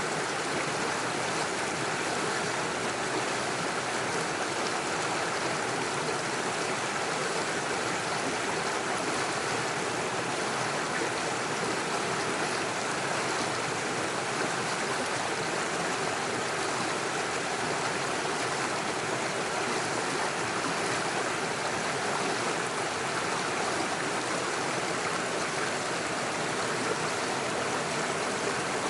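Small mountain stream running over mossy stones and little waterfalls: a steady, even rush of flowing water.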